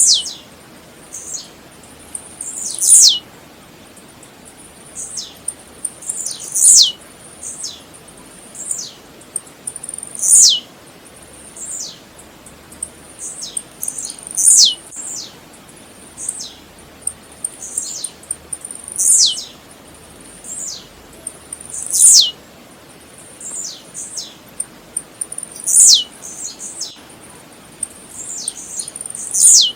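Blue-black grassquit (tiziu) singing its short, sharply descending "tiziu" note over and over, a loud one about every three to four seconds with fainter notes of the same kind in between.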